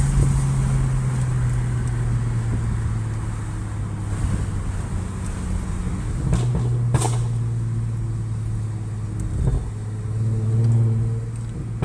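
Car exhaust with the muffler removed, an X-pipe and the second catalytic converter deleted, running at a steady engine speed with a low drone. The note swells briefly near the end.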